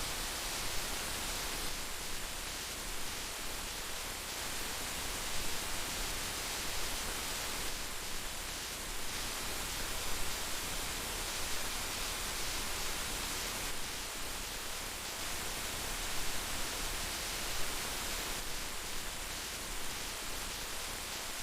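Steady heavy rainfall, a dense even hiss of rain with small flickers of louder drops.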